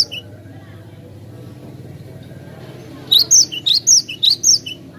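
Cinereous tit (glatik batu) singing: a brief call right at the start, then after a pause of a few seconds a quick run of repeated high two-note phrases lasting about a second and a half.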